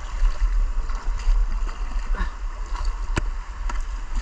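Rushing white water of river rapids around a kayak, with paddle splashes and a sharp knock about three seconds in, over a steady low rumble.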